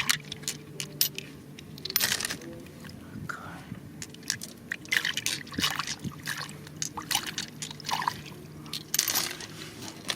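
Water sloshing and splashing, with many short sharp clicks and knocks scattered through it, over a faint steady low hum.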